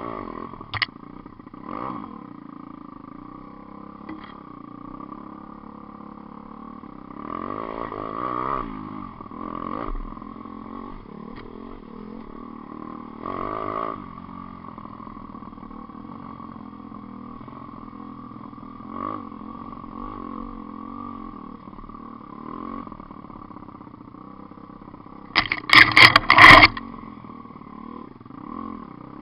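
A 125cc GPX pit bike engine running steadily as the bike is ridden, with several short rises in revs. About 25 seconds in comes a much louder, choppy spell of revving close by.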